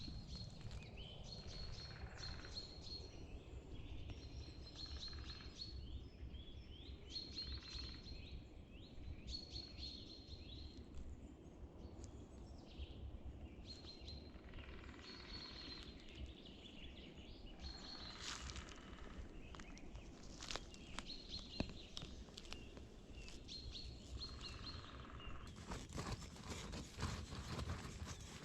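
Small birds chirping repeatedly in short high calls over a low steady background rumble. A run of crackling, crunching clicks comes in near the end.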